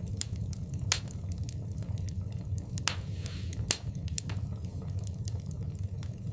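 Wood fire in a fireplace crackling, with scattered sharp pops, the loudest about one second in and again near four seconds, over a steady low rumble of the burning fire.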